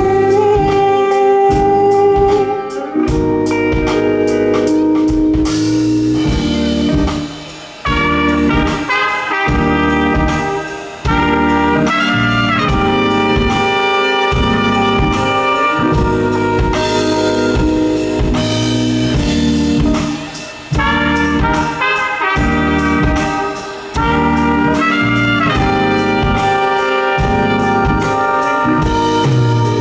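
Live band playing an instrumental break without vocals: a melodic lead line over a steady drum beat, with a few short drops in the music.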